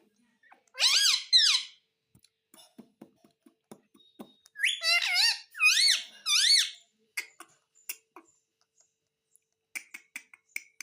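Pet ringneck parrot giving high, squawky calls: two about a second in, then three more in quick succession around five to six and a half seconds. Each call rises and falls in pitch. Faint small clicks and taps fall between the calls.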